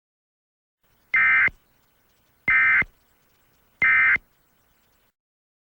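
Three identical short bursts of Emergency Alert System digital data tones, buzzy and about 1.3 s apart: the End of Message code sent three times to close the alert.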